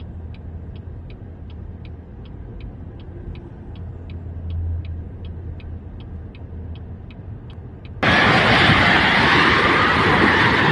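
Low steady rumble with a light, regular ticking about two and a half times a second. About eight seconds in, a much louder rushing noise cuts in abruptly.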